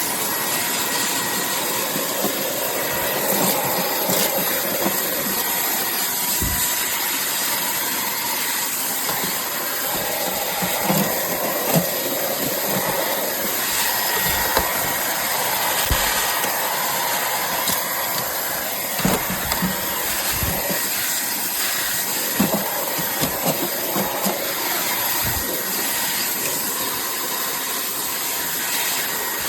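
Cordless stick vacuum with a brushless motor running steadily, a loud even hiss with a faint whine, while being pushed around. A few short low knocks are heard, at about six seconds, sixteen seconds, around twenty seconds and twenty-five seconds.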